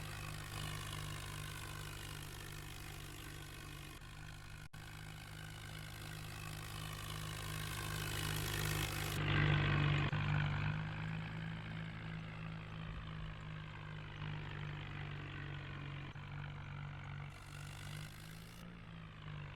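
New Holland tractor's diesel engine running steadily. It grows louder about nine seconds in, then eases back.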